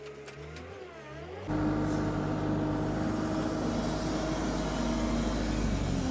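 A vehicle engine running steadily; the sound turns suddenly much louder about a second and a half in and holds steady after that.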